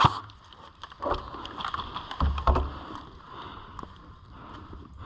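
Rustling and handling noise of an airsoft player's gear against the microphone, with a few sharp clicks scattered through it.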